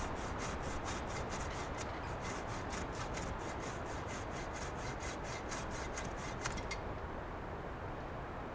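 Fast, even rubbing or rasping strokes, about four or five a second, like a hand tool working wood. They stop about seven seconds in, over a steady rushing background.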